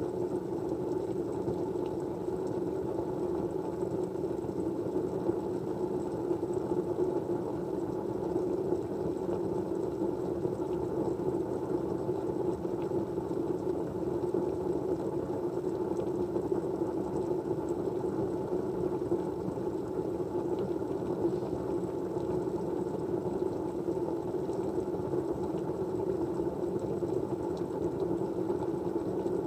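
Steady white-noise background: a constant, even rushing sound centred low in pitch, unchanging throughout.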